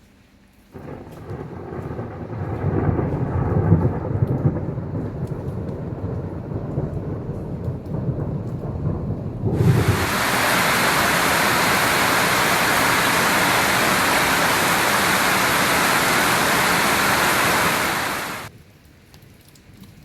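Thunder rumbling for several seconds, then a sudden loud, even rush of heavy rain that holds steady and cuts off shortly before the end.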